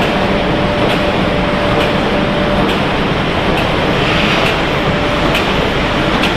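Steady machinery din of a running snack-chip production line: conveyors, a rotating seasoning drum and a multihead weigher. A thin steady hum comes and goes, with light regular ticks a little under once a second.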